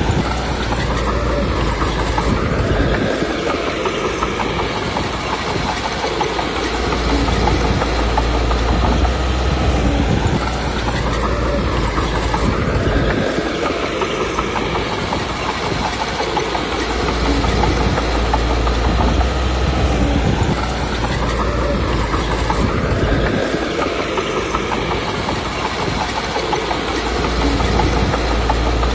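Komatsu D21P crawler bulldozer working: the diesel engine rises and falls in pitch in a repeating cycle about every ten seconds, over a continuous clanking rattle from the steel tracks.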